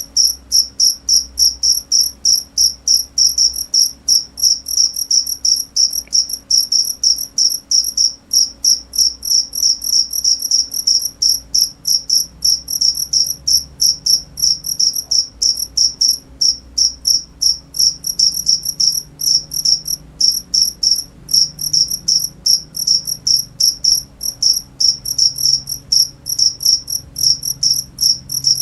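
A cricket chirping steadily in an unbroken, even rhythm of about three short, high chirps a second.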